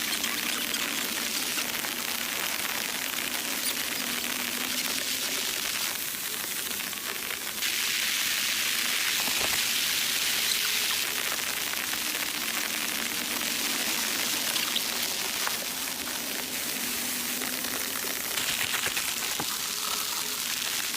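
Steady rain falling, an even hiss that gets heavier and lighter in spells every few seconds.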